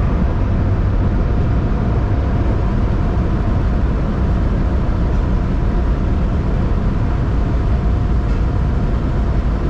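Steady rushing and rumbling of tunnel car wash machinery, heard from inside a Tesla Model 3 as it rolls through the wash.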